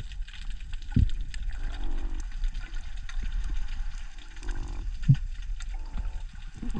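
Underwater sound on a night dive: a steady crackle of small clicks and water movement, with three short, low, buzzing croaks a second or two apart and two dull thumps. The croaks fit the mystery croaking heard during this dive.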